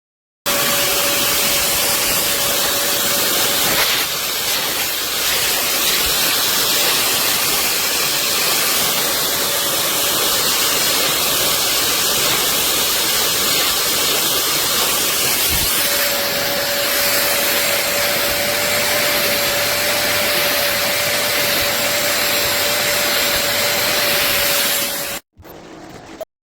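Vacmaster SCA0801 carpet spot cleaner's suction motor running steadily with a constant high whine, cutting off suddenly near the end.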